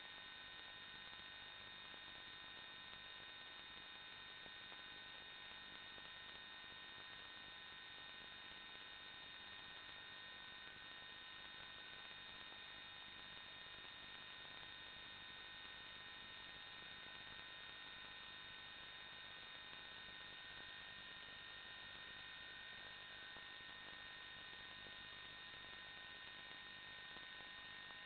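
Faint, steady electrical hum and whine with several fixed high tones over a low hiss, unchanging throughout.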